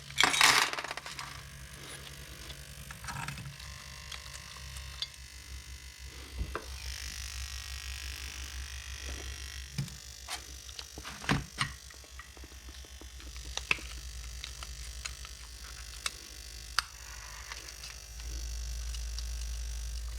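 Small carburettor parts being handled and worked on at a workbench: scattered light clicks and knocks of small metal parts over a steady low hum, with a short burst of hiss right at the start.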